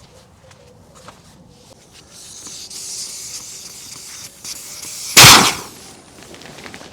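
A hiss lasting about three seconds, then one very loud bang.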